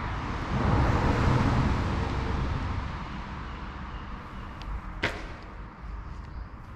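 A rushing whoosh of noise that swells and then fades over about two seconds, followed by a single sharp click about five seconds in.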